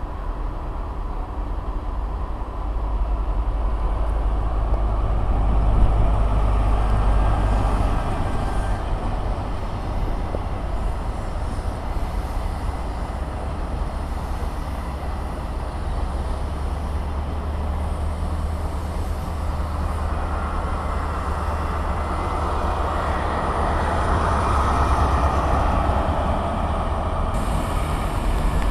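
A train running at a station platform: a steady low rumble with a noisy mid-range, growing louder a few seconds in and again near the end.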